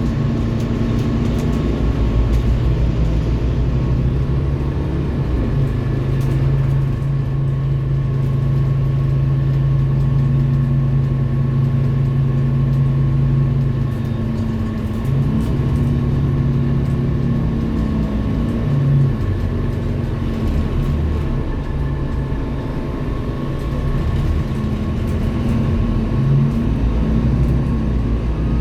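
Scania K230UB city bus's diesel engine running as the bus drives, its low drone shifting up and down in pitch several times with engine speed, over a faint steady whine.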